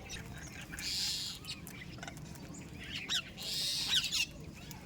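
Several small birds chirping in short, quick calls while feeding, with two longer harsh, hissing sounds about a second in and at about three and a half seconds.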